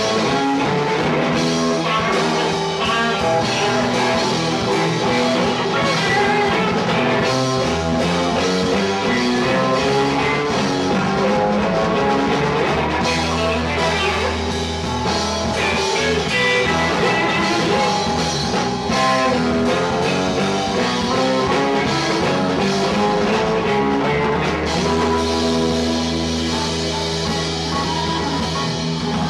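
Live rock band playing with electric guitar, bass, drums and keyboards, loud and continuous.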